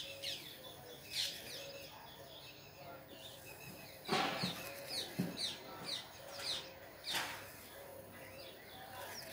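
Small birds chirping: short, falling chirps repeated in quick runs. A louder, lower sound comes about four seconds in, and two shorter noisy scratches about a second in and about seven seconds in.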